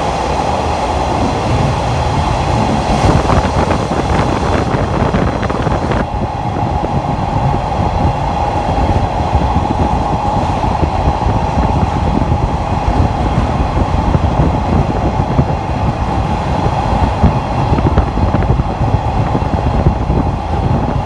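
Open-air trolley car of a train running at speed: a loud, steady rumble of wheels on rails under a constant drone. The higher hiss falls away about six seconds in.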